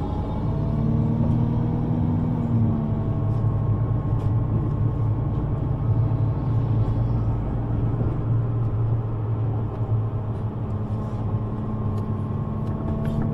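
Road vehicle running: a steady low engine rumble with faint, slowly gliding whines above it.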